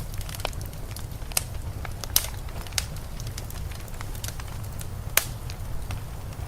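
Wood fire crackling in a fireplace, with scattered sharp pops, the loudest about two seconds in and again about five seconds in, over a steady low rumble of blizzard wind.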